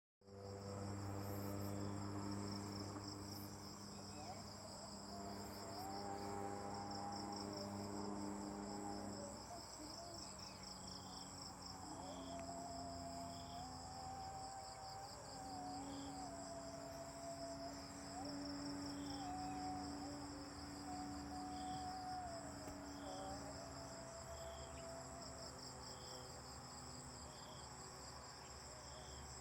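Insects chirping in a continuous fast-pulsing high trill. Under it runs a low steady hum, and short faint peeps repeat about every one and a half to two seconds.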